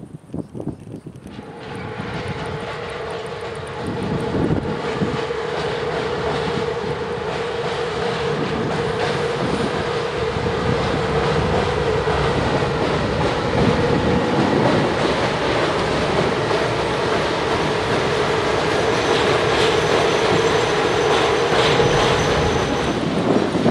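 Container freight train hauled by an electric locomotive crossing a girder bridge. From about a second and a half in, a steady loud rumble of wagons with rhythmic clickety-clack of wheels over rail joints, under a steady droning hum that stops near the end.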